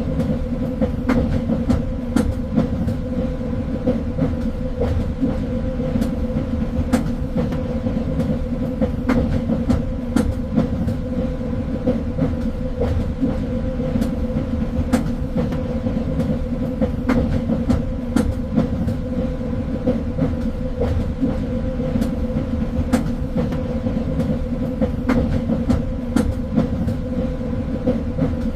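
Train running along the track: a steady low rumble with a constant hum, and frequent irregular clicks and knocks from the wheels on the rails.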